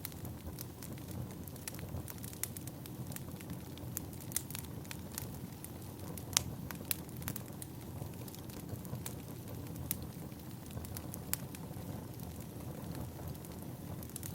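Wood fire burning: a steady low rumble with irregular sharp pops and snaps of crackling firewood, the loudest pop about six seconds in.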